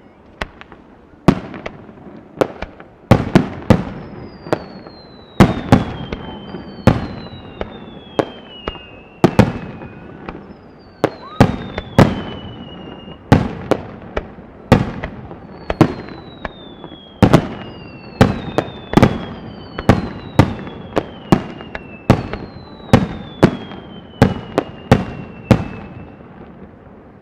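Fireworks display: aerial shells bursting in a steady run of sharp bangs, about one to two a second, with several falling whistles from whistling shells running between them.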